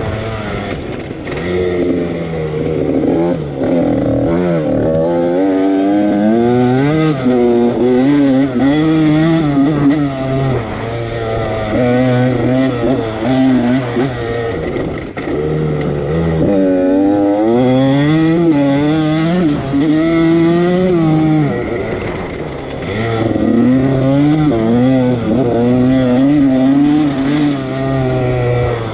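Husqvarna TC85's two-stroke 85cc engine being ridden hard, its pitch rising and falling again and again as the rider revs up and backs off.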